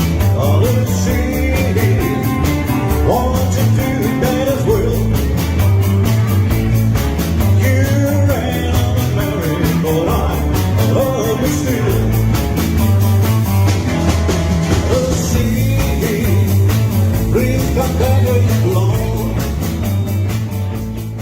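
Fifties-style rock-and-roll band playing, with a steady driving beat and guitar lines; the number winds down and stops right at the end.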